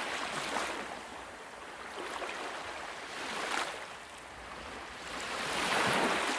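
Rushing water noise, swelling louder and easing off every two to three seconds.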